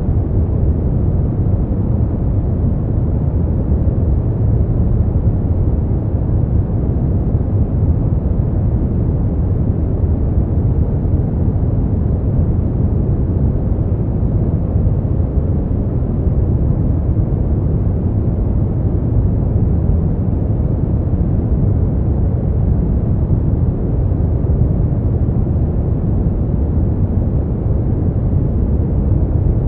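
Steady, unchanging noise track for sleep, deep and rumbling, with most of its weight in the low end and little in the treble.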